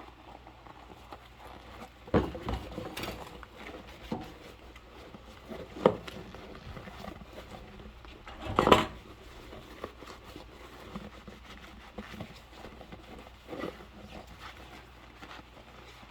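Dishes being handled and washed by hand with rubber gloves: a few separate knocks and clatters against a quiet background, the loudest and longest about nine seconds in.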